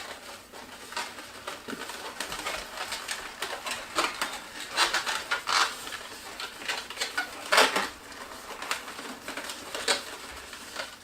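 Latex twisty balloons squeaking and rubbing against each other in irregular short bursts as they are twisted and bent into shape.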